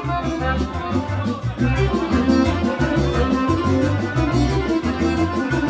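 Serbian folk orchestra with violin playing a kolo, a fast circle-dance tune, over a steady quick beat.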